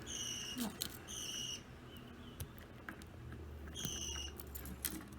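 Budgerigars giving three short, even-pitched chirps, with scattered light clicks and rattles from a chain toy they are playing with.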